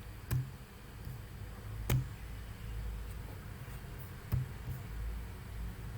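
Three single computer mouse clicks, spaced a second or two apart, over a low steady hum of room and microphone noise.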